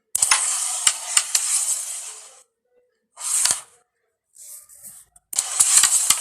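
Carrom coins and striker sliding across the board in several separate bursts, with sharp clicks where the striker hits the coins and the coins knock together.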